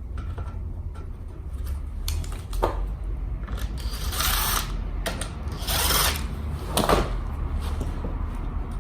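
Work on a scooter in a shop: clicks, rubbing and two short rasping hisses from tools and parts being handled, over a steady low hum.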